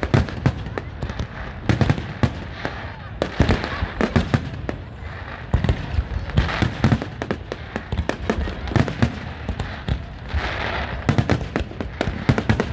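Fireworks going off in rapid, irregular succession: a dense run of sharp bangs and crackles, several a second.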